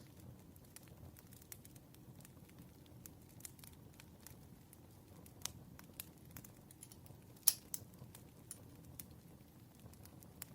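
Campfire crackling: a low steady rumble of the fire under scattered sharp pops and snaps, the loudest pop about seven and a half seconds in.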